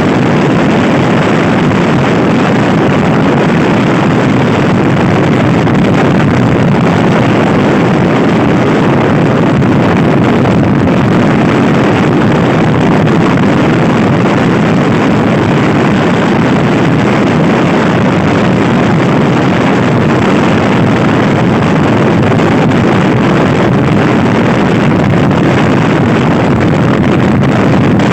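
Loud, steady wind noise on the microphone of a Honda Scoopy i scooter ridden fast, with the scooter's small single-cylinder engine running underneath.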